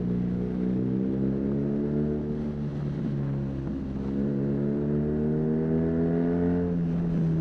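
BMW R nineT's 1170 cc air/oil-cooled boxer twin pulling under way through an aftermarket Arrow high-mounted exhaust. The engine note sags a little, climbs steadily for about three seconds, then drops abruptly near the end as the next gear goes in.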